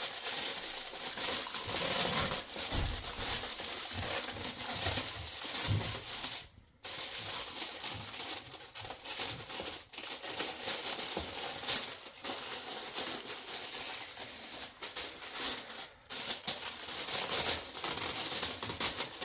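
Aluminium foil crinkling and rustling as it is pressed and folded around the rim of a biryani pot to seal in the steam, with a dense run of small crackles and a brief break about a third of the way in.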